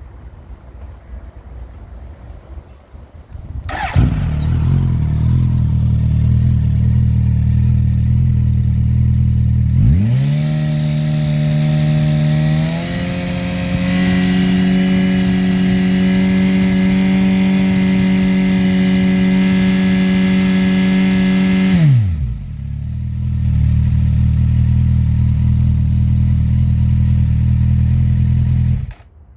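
Suzuki GSX-S1000GX inline-four engine with an Akrapovic slip-on exhaust: it starts about four seconds in and idles, then is revved up about ten seconds in and held steady at around 5,600 rpm for some ten seconds, drops back to idle, and is shut off near the end.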